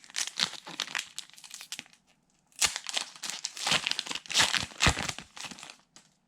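Foil wrapper of a Pokémon trading card booster pack being torn open and crinkled by hand, in two spells of crackling, the second longer and louder.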